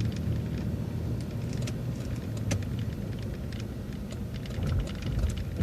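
City bus running on the road, heard from inside: a steady low engine and road rumble with scattered light rattles and clicks.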